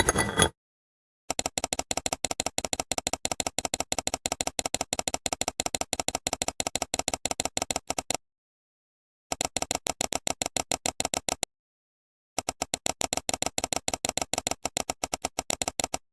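Rapid, evenly spaced clicking, several clicks a second, in three runs broken by dead silence.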